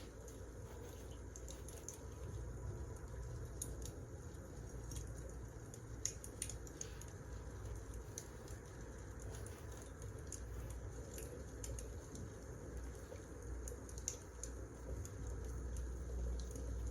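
Wood fire crackling: irregular sharp pops and snaps over a soft low rumble, with the sharpest pops about 6 and 14 seconds in.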